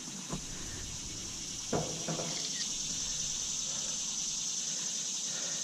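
Steady high-pitched insect chorus, with a few short knocks of something being handled, one early and a couple about two seconds in.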